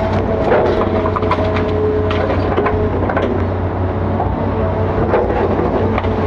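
Hitachi 5G-series excavator running, its engine giving a steady low hum under a whine of several held tones that shift pitch now and then, with scattered short knocks.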